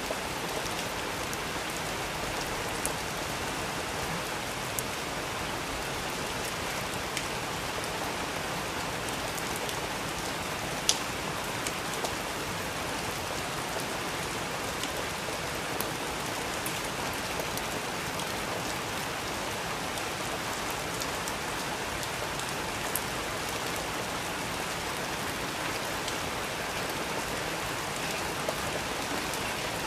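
Steady rain falling, an even hiss with scattered sharp ticks of drops striking close by, one louder tick about eleven seconds in.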